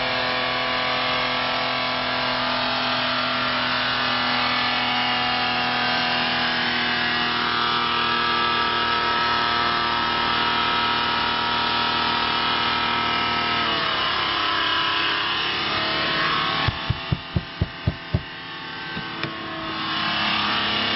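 Car engine screaming at redline with no load, held at full throttle by a foot resting on the gas pedal: it is being over-revved to the point of blowing the motor. About two-thirds of the way through the pitch sags a little. A quick run of about seven loud thumps follows, then the engine sound rises again near the end.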